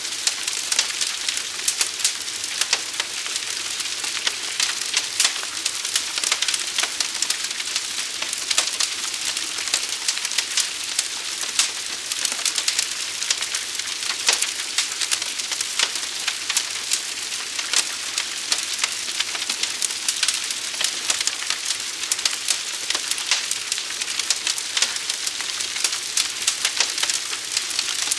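Forest fire burning: a steady hiss with many sharp, irregular crackles and pops.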